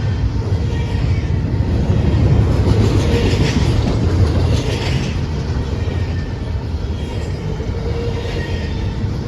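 Train rolling past, its wheels rumbling steadily on the rails, with faint squealing tones from the wheels.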